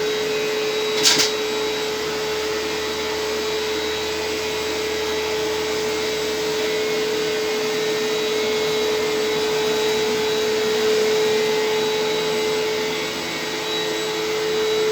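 Hoover WindTunnel upright vacuum cleaner running at full speed, a steady motor whine over a rush of airflow, with a brief crackle about a second in.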